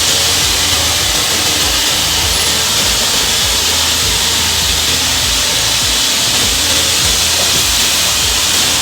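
Steady hiss from the spinning saw blade and motor of a TS-J39 PQJ automatic molding cutting machine during its automatic cutting cycle, with a low, even pulsing underneath.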